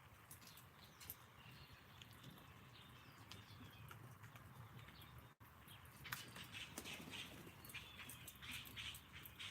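Small birds chirping faintly, short calls and quick downward-sweeping notes, with scattered light clicks. The sound cuts out for an instant about five seconds in and comes back a little louder.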